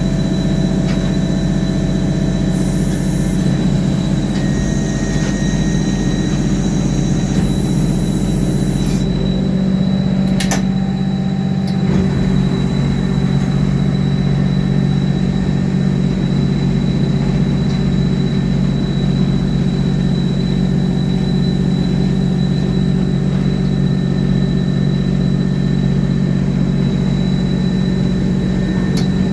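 Revathi C650D drill machine running with a steady, heavy engine drone. A high-pitched squeal over it stops about a third of the way through, and a single sharp knock follows shortly after.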